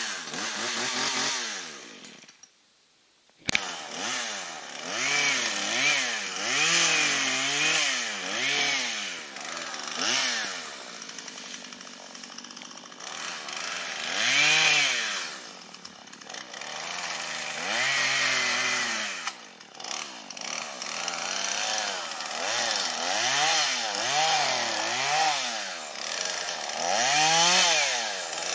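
Gas chainsaw cutting wood, its engine pitch rising and falling over and over as the saw revs and then slows under load in the cut. About two seconds in the sound drops almost to silence for about a second before the saw comes back.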